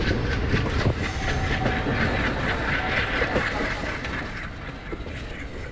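Passenger train running along the track, heard from aboard: a steady rush of noise with repeated clicks of the wheels over the track, growing gradually fainter.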